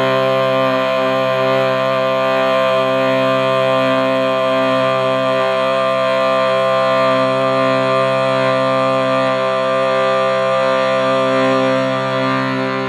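Steady drone with a rich stack of overtones, unbroken and even in level throughout.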